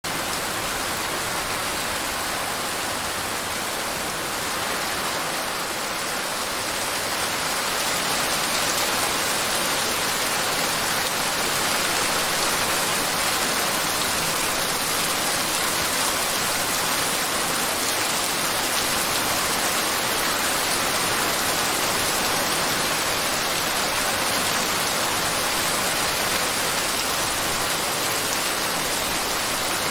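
Steady, dense rain ambience, an even hiss of falling rain with no distinct drops, growing slightly louder about seven seconds in.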